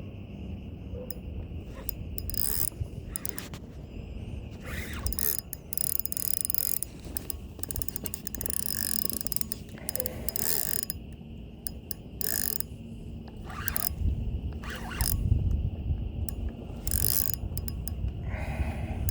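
Fishing reel ratcheting and clicking in irregular spells as line is worked against a hooked fish, over a low rumble.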